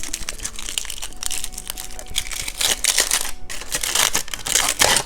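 Crinkly candy wrapper being handled and torn open: irregular crackling rustles that grow louder and denser in the second half.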